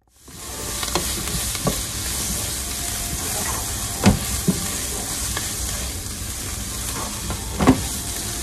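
Onion, green chillies, cashews, mint and coriander leaves sizzling in oil in a frying pan, stirred with a wooden spatula. The sizzle fades in at the start and holds steady, with a few sharp knocks of the spatula against the pan, the loudest about four seconds in and near the end.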